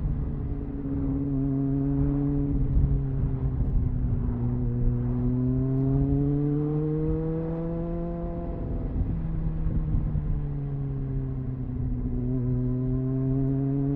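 Triumph Speed Four's 600cc inline-four engine on its stock exhaust, heard onboard while riding: the revs rise over several seconds, drop about nine seconds in, and begin climbing again near the end.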